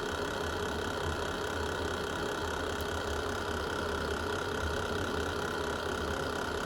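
Fireplace fire burning with a steady low rumble and only a rare faint crackle.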